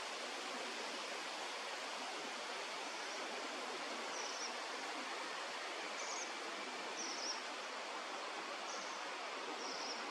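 Steady rushing outdoor noise, with five short high bird chirps from about four seconds in.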